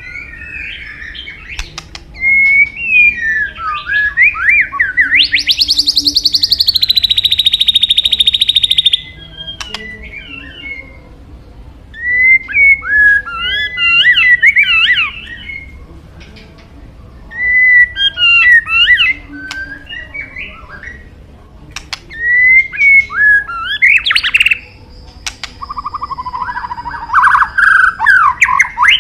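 White-rumped shama (murai batu) singing: loud bursts of varied, quickly gliding whistled phrases, each a few seconds long with short pauses between. About five seconds in it holds one long buzzing note for some four seconds, and near the end it switches to a rapid run of repeated notes.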